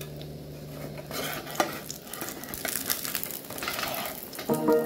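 Egg and brinjal omelette frying in a small nonstick pan: a hissing sizzle with scattered scrapes and taps of a spatula against the pan, including one sharp tap about a second and a half in.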